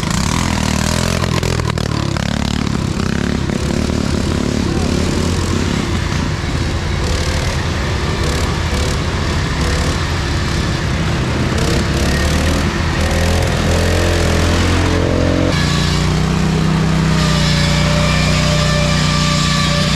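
Racing lawn mower engines running hard, their pitch rising and falling with the throttle, with one engine growing louder and steadier in the second half.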